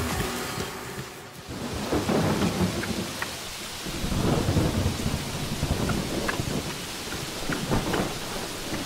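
Heavy rain falling steadily, with low rolls of thunder swelling about two seconds in, again around four to five seconds, and near the end.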